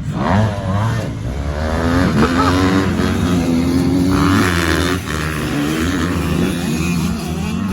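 Dirt bike engines revving hard and falling off as the motocross bikes race around the track, with several engine notes overlapping.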